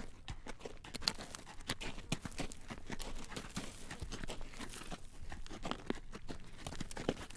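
Horse's hooves clip-clopping on a road as it pulls a carriage: a steady run of clacks, several a second.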